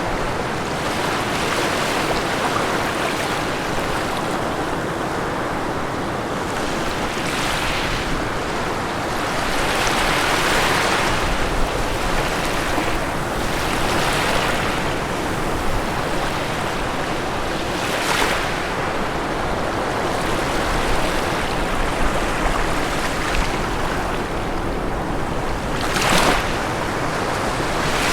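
Ocean waves breaking on a shore: a continuous wash of surf with a wave surging and breaking every few seconds.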